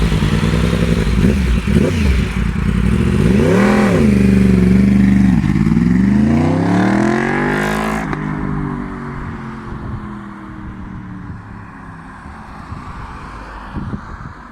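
2015 Yamaha R1's crossplane inline-four engine: a few sharp throttle blips, then a hard acceleration with the pitch climbing for about three seconds. The pitch then drops and the sound fades as the bike pulls away past the microphone.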